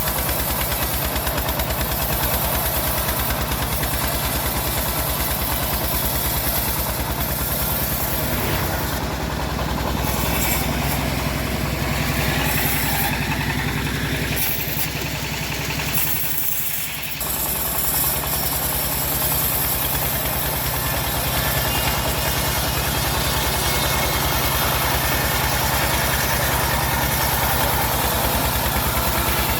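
Engine driving a homemade bandsaw mill, running steadily with an even, rapid firing beat; the level dips briefly about 17 seconds in.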